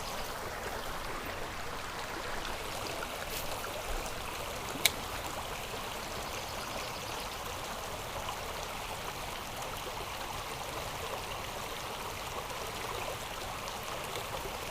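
Creek water running over rocks, a steady rush. A single sharp click about five seconds in.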